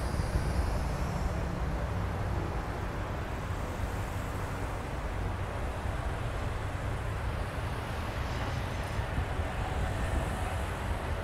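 Freight train of double-stacked intermodal container cars rolling past, a steady low rumble of wheels on rail.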